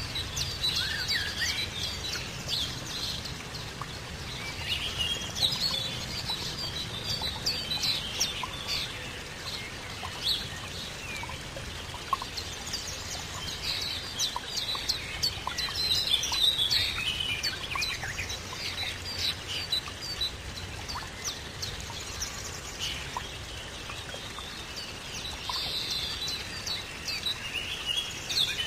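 Birds chirping and calling, with many short, quick calls overlapping throughout, over a faint, steady low background noise.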